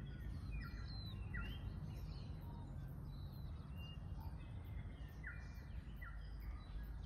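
Small birds chirping and calling repeatedly, short quick notes with sliding pitch, over a steady low rumble.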